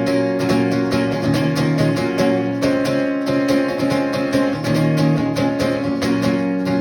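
Live rock song played on strummed guitar with a steady, even rhythm, without singing.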